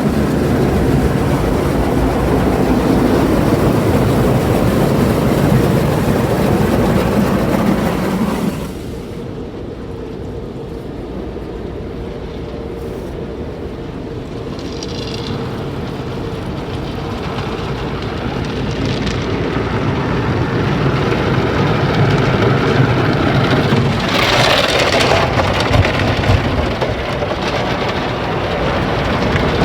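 MacNeil car wash tunnel equipment working on the car, water spray and machinery noise drumming on the body, heard from inside the car. A loud stretch cuts off suddenly about eight seconds in, then the noise builds up again.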